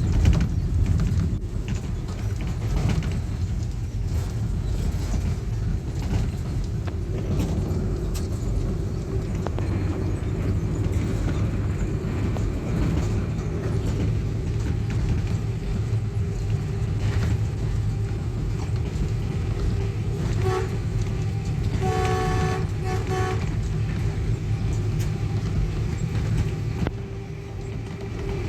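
Diesel locomotive running with a steady low rumble, its horn sounding a short toot about twenty seconds in and a longer blast about a second and a half later.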